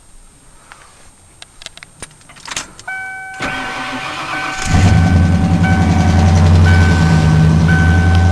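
Pickup truck started from inside the cab: keys clicking and jingling in the ignition, a repeating warning chime, a second or so of starter cranking, then the engine catches just past halfway and settles into a steady idle while the chime keeps sounding.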